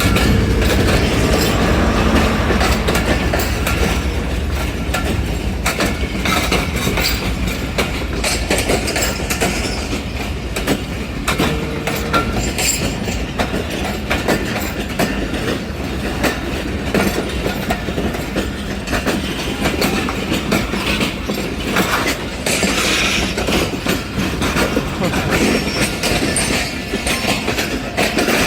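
Hazara Express passenger train rolling past, its wheels clattering steadily over the rails with a dense run of clicks, and a heavier low rumble in the first few seconds.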